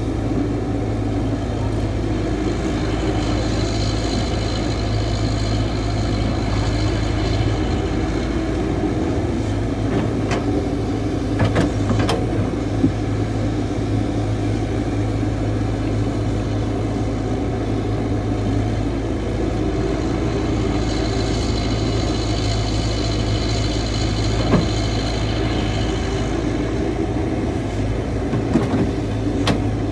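CAT 312 excavator's diesel engine running steadily with a low hum; the sound swells twice with a higher hiss for several seconds as the machine works. A few sharp knocks come near the middle and near the end.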